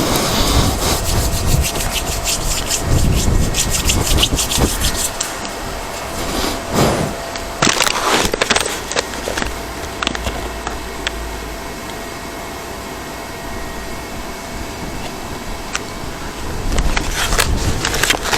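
Close rustling, rubbing and crackling right at the microphone, with low rumbling in places; it eases off in the middle and picks up again near the end.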